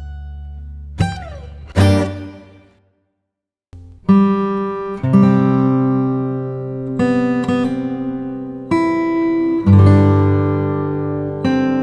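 Background music of plucked guitar notes, with a short break of silence about three seconds in before the music picks up again.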